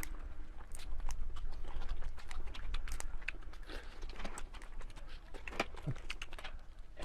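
Close-miked eating sounds: irregular crunching, clicking and smacking of someone biting and chewing food, with a brief low hum-like sound near six seconds in.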